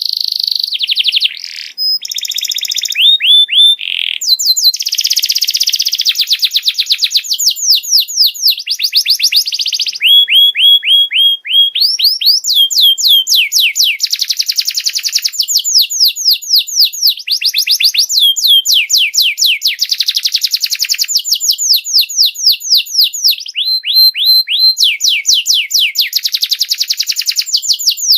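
Canary singing a continuous song of rapid trills: fast runs of short, high down-sweeping notes that change from one run to the next, broken by a few brief held whistles.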